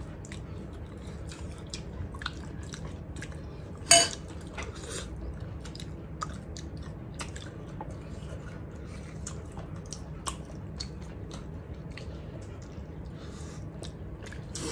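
Close-up eating sounds: chewing and small wet mouth clicks as people eat food by hand, with one sharp click about four seconds in.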